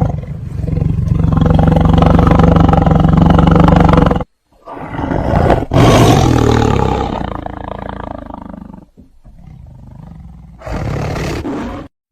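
Big cat roaring in three separate roars: a long loud one of about four seconds, a second that fades over about four seconds, and a shorter one near the end.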